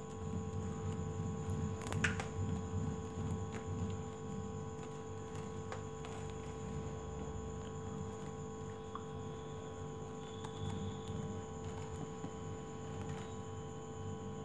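Steady electrical hum with a few faint clicks of plastic craft wire being pulled and knotted by hand.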